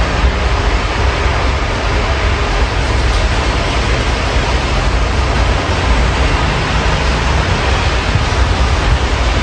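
Steady rain falling, heard through an open window, with a low city rumble underneath.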